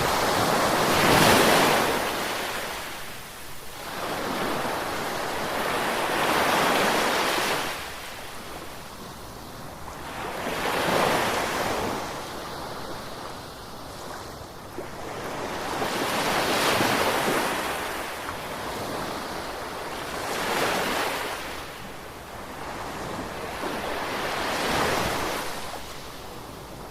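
Ocean waves breaking and washing on the shore, surging and ebbing about every four to five seconds.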